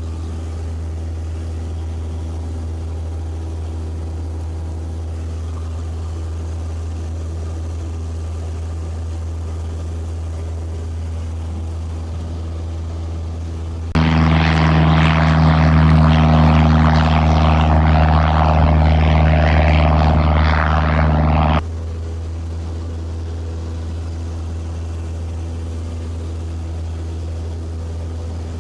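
Small propeller airplane's engine droning steadily in flight. A louder, brighter stretch of the same drone starts abruptly about halfway through and cuts off just as abruptly some seven seconds later.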